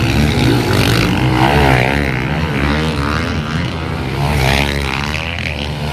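Several pit bike engines racing, their pitch rising and falling repeatedly as the riders open and close the throttle.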